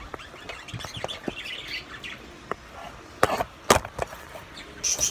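Birds chirping, with two loud sharp knocks about half a second apart past the middle. Near the end a fast, even run of rasping clicks starts.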